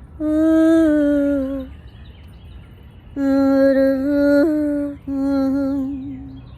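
A woman's voice singing three wordless, humming-like phrases in a low-middle register. The first phrase sinks slowly in pitch, and the last two follow almost back to back.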